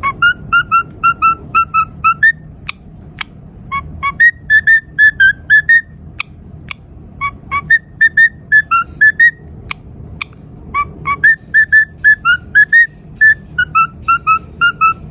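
Cockatiel whistling a tune in phrases of short, repeated whistled notes, several ending in a quick upward flick, with a few sharp clicks between the phrases.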